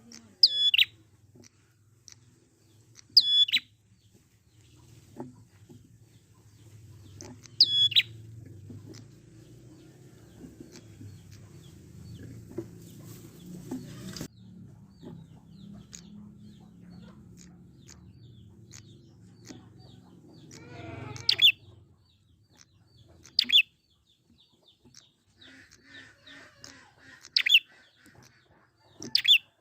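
Prinia (prenjak) calling: loud, sharp, high chirps, about seven of them a few seconds apart, over a faint low rumble through the middle.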